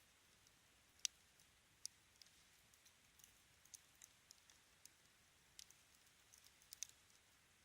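Wood fire crackling: scattered sharp pops and ticks over a faint hiss. The loudest pop comes about a second in, with a quick cluster of pops near the end.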